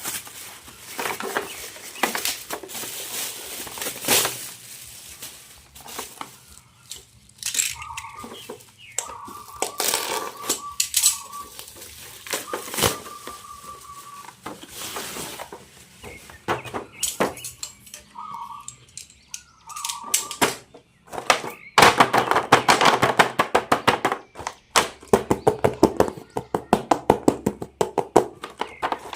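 Plastic toy packaging and parts being handled: rustling and scattered clicks with a few short squeaks, turning into a fast, dense run of clicking about 22 seconds in.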